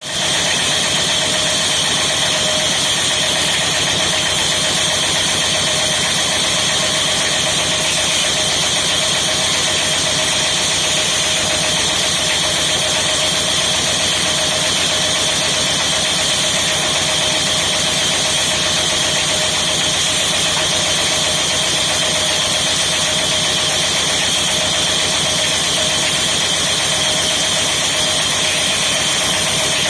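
Electric woodworking saw machine running steadily, an even hum with a high whine that neither rises nor falls.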